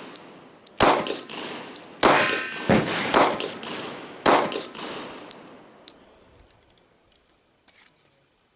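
A Glock 22 Gen 4 .40 S&W pistol firing five shots at an uneven pace over about four seconds, each shot followed by a ringing echo. The sound then dies away, with one faint click near the end.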